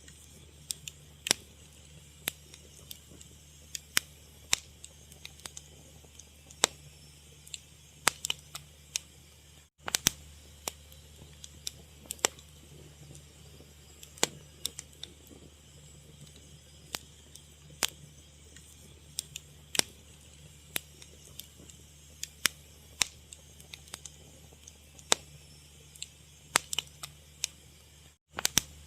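Fire crackling: irregular sharp pops and snaps, several a second at times, over a low steady hum, with two very brief gaps in the sound.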